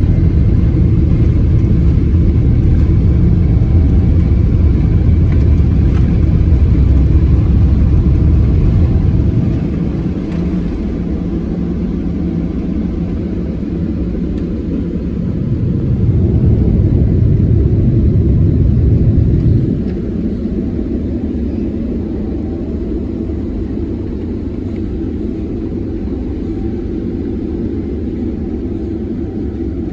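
Airbus A330-300 cabin noise during takeoff: a heavy, steady low rumble of the jet engines and airflow. It drops in level about ten seconds in, swells again for a few seconds, and settles lower and steady from about twenty seconds on.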